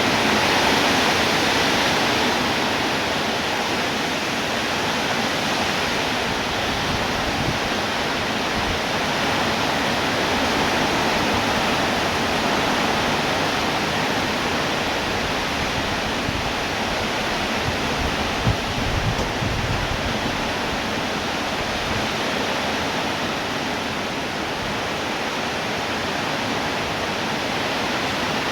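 Steady heavy rain, an even constant hiss, with a couple of brief low thuds about two-thirds of the way through.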